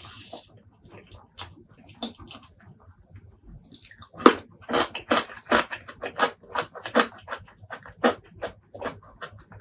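Close-miked chewing of a mouthful of spicy pork leg curry and rice. Faint mouth clicks at first, then, from a little past the middle, loud wet chews at about two a second.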